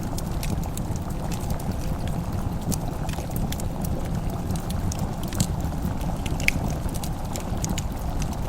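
Wood fire crackling in a fireplace: scattered small sharp pops and snaps over a steady low rumble, one pop a little louder about six and a half seconds in.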